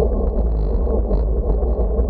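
Wind buffeting the microphone: a steady, loud, rumbling rush with no let-up.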